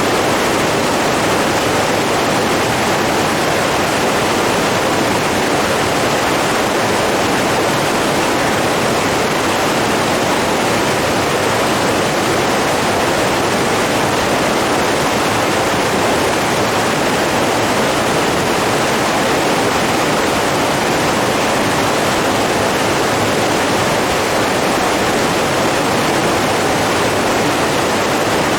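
Running water rushing steadily in an even, unbroken wash of noise.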